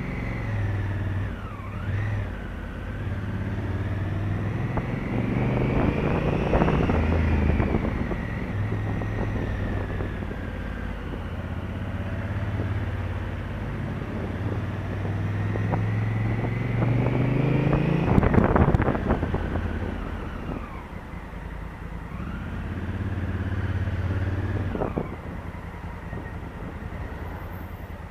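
Honda Africa Twin CRF1000L's parallel-twin engine under way, its pitch climbing and dropping as it accelerates and shifts several times, loudest about eighteen seconds in.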